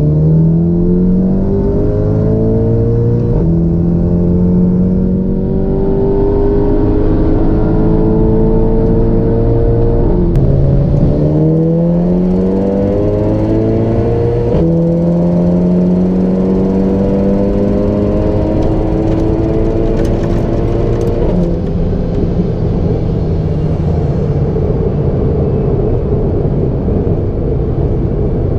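Turbocharged 2.0-litre four-cylinder of a tuned VW Golf Mk7 GTI (TTE535 turbo), heard from inside the cabin under full-throttle acceleration. The engine note climbs in pitch and drops back at each upshift, several times over, then holds steady for the last several seconds.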